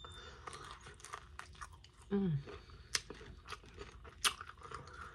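Close-up biting and chewing of a dry, unsauced Thai curry chicken wing, with sharp crunches of the crispy skin, the loudest about three and four seconds in. There is a brief falling vocal sound a little after two seconds.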